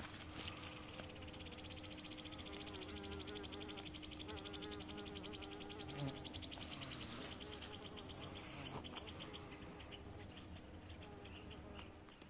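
An insect trilling: a fast, even run of high-pitched clicks that starts about a second in and slows and breaks up near the end, over a faint steady hum.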